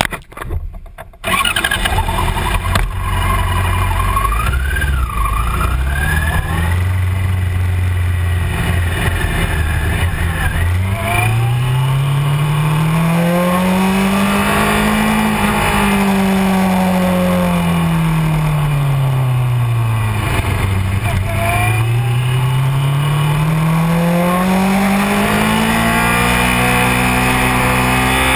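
Honda CBR600F4i sport bike's inline-four engine running. It comes in loud about a second in and holds low revs at first. From about 11 s on the revs rise and fall smoothly twice, then climb again near the end.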